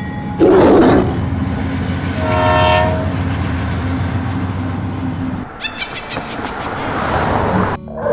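Train running with a steady low rumble and clatter, a loud hiss about half a second in and a horn blast around two to three seconds in.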